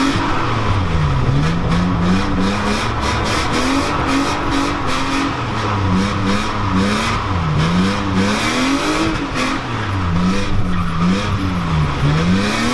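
Car engine heard from inside the cabin while drifting, its revs rising and falling over and over, with tyres squealing on the slide.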